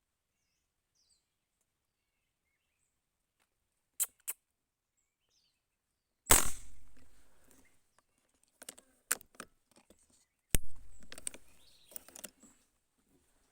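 Two gunshots about four seconds apart, each echoing away for about a second, with small clicks around them and a few faint bird chirps beforehand.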